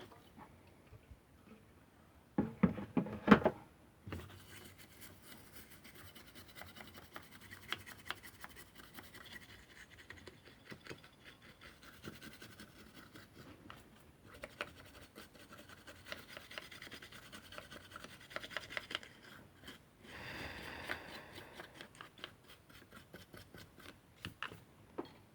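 A circuit board being scrubbed clean of solder paste with thinner: a steady scratchy rubbing with many small rapid clicks. A short burst of louder knocking handling noise comes about two and a half seconds in.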